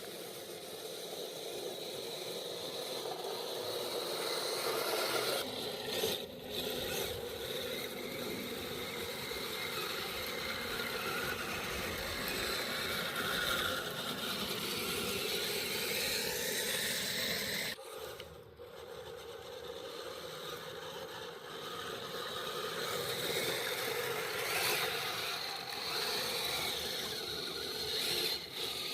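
Radio-controlled scale vehicle's electric motor and geared drivetrain running steadily, with scraping and grinding over the ground. It breaks off abruptly a few times.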